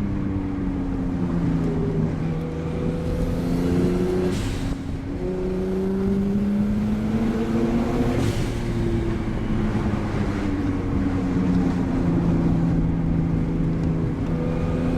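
Straight-piped Nissan Skyline R32 GTST's RB20 straight-six, on a 3-inch straight pipe, pulling hard through the gears. The engine note climbs, drops sharply at two upshifts about four and eight seconds in, eases off, then climbs again near the end.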